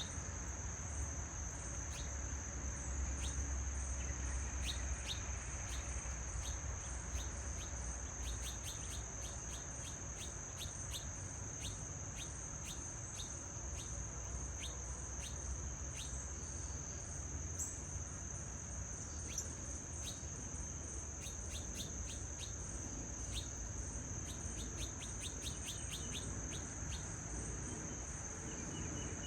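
Insects trilling in one steady, high-pitched tone, with many quick, short bird chirps over it, thickest through the middle stretch.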